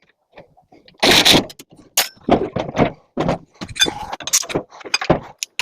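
Clanks, knocks and scrapes of sheet-metal parts being handled and pulled apart while a microwave is stripped for scrap, starting with a loud scrape about a second in and going on as a string of sharp knocks.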